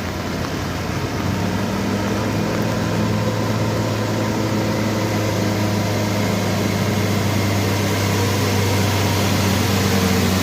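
A vehicle's engine running steadily under load on a steep climb, slowly getting louder.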